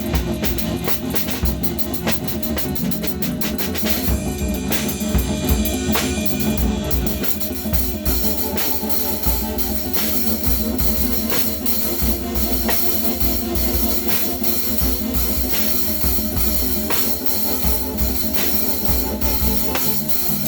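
Drum kit played in a free improvisation, with frequent bass drum strokes and dense hits on drums and cymbals, over a steady drone from a Eurorack modular synthesizer.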